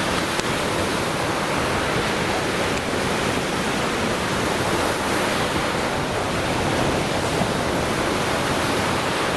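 Lake Michigan surf washing onto the beach, a steady, even rush of waves.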